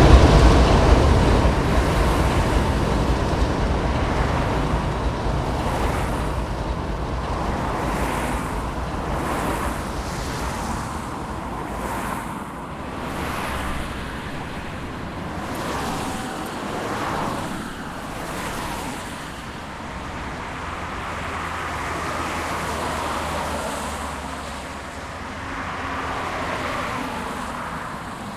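Freight train rumbling loudly, then fading away over about ten seconds as it moves off. Steady wind and road traffic noise follow.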